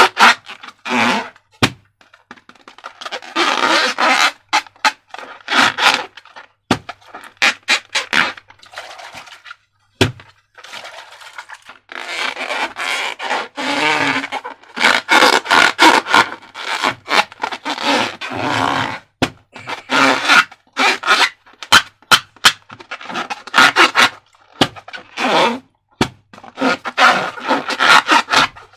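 Hands working slime and rubber balloons: repeated squishing and rubbery scraping in irregular bursts, with a few sharp clicks between them.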